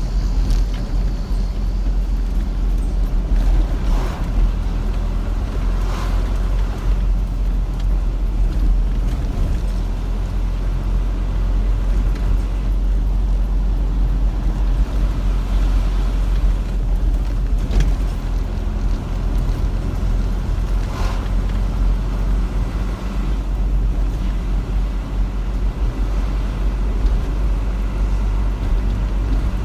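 Car driving on a road: a steady low rumble of road and engine noise, with a few light knocks from bumps.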